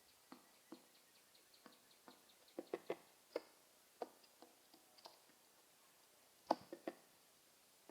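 Pigeons making scattered light taps and clicks, irregularly spaced, with a loud cluster about two and a half seconds in and another near the end. A faint row of short, high peeps runs through the first three seconds.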